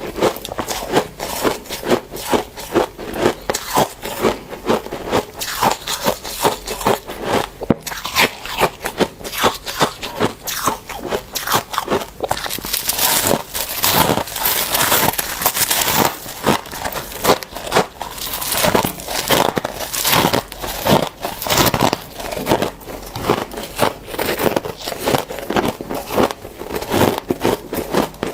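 Dry, squeaky freezer frost being bitten and chewed in a rapid run of close, crisp crunches that grows brighter and denser about halfway through.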